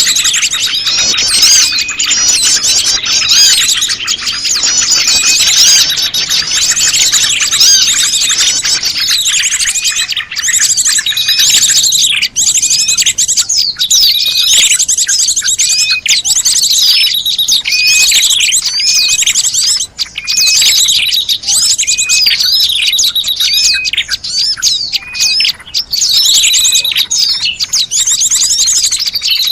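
Bird-lure recording of prenjak lumut calls mixed with a dense chorus of other small birds chirping. It is a continuous, busy layer of rapid high-pitched chirps and short sweeping notes, with repeated call phrases recurring every second or two.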